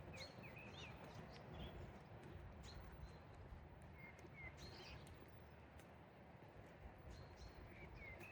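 Faint small-bird chirps, short rising and falling notes coming every second or two, over a low steady outdoor city background, with a few light sharp clicks.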